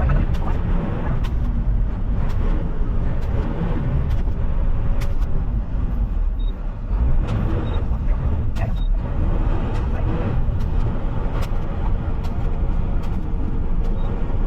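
Front-loading garbage truck running as it drives: a steady low engine rumble with scattered short clicks and rattles.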